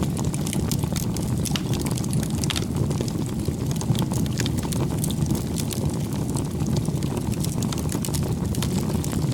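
Wood bonfire crackling, with frequent sharp pops and snaps over a steady low rumble.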